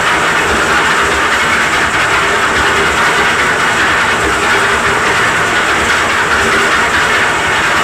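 Concrete mixer's engine running steadily, driving the drum as a winch to hoist concrete, with a continuous hissing noise and irregular low knocking underneath.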